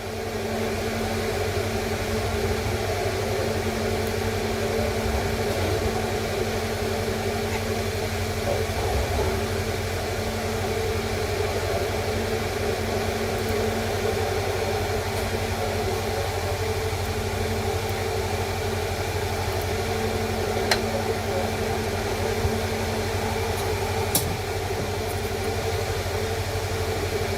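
A steady mechanical hum with a low drone and a constant pitched tone, and two faint clicks near the end.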